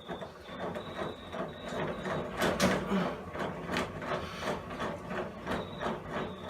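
Blade-height adjustment mechanism of a WorkZone table saw being cranked by hand, its gearing rattling with a run of clicks at about two to three a second.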